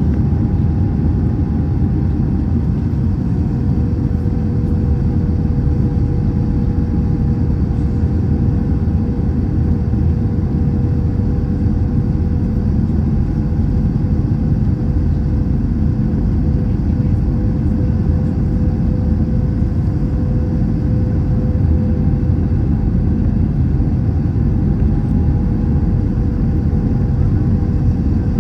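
Airbus A321 cabin noise: a steady rush of airflow and engine drone, with two steady humming tones on top, unchanging throughout.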